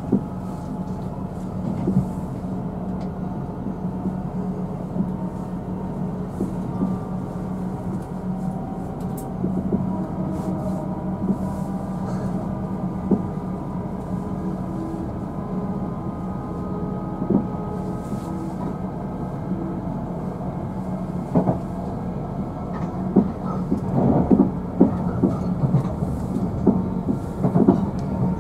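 Train running, heard from inside a passenger car: a steady low hum with occasional clicks of the wheels over the rail, and a run of louder knocks near the end.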